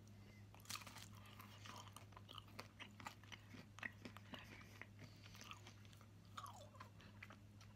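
Faint close-up chewing of a piece of Tony's Chocolonely milk chocolate with caramel and sea salt: irregular small wet mouth clicks and crunches, over a steady low electrical hum.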